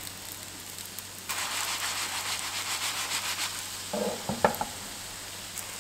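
Ricotta fritters frying in melted butter in a nonstick pan: a faint steady sizzle that grows into a louder crackling for about two seconds. A short knock about four seconds in.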